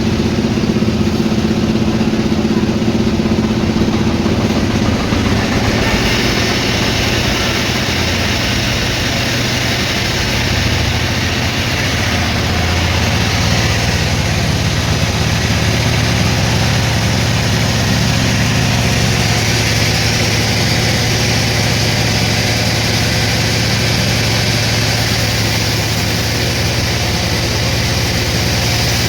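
Sawmill machinery running steadily with a low hum; about six seconds in, a harsher, higher noise joins and carries on.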